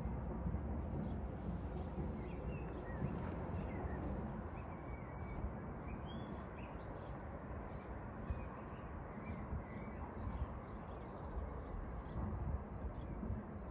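Outdoor ambience: small birds chirping with many short, high calls scattered throughout, over a steady low rumble.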